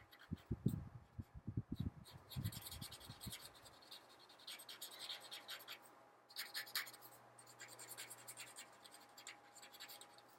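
Felt-tip marker scratching across paper in quick back-and-forth colouring strokes, in bunches with short pauses. Dull low bumps against the table come in the first few seconds.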